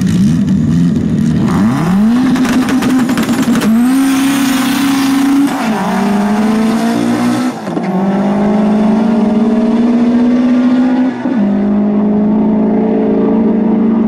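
Car engine in a drag race: it revs briefly, then launches and accelerates hard. The revs climb and fall back at three upshifts, about five and a half, eight and eleven seconds in.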